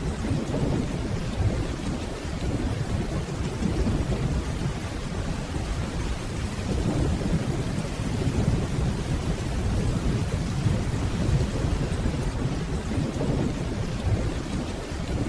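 Steady rainfall with a continuous low rumble of distant thunder underneath.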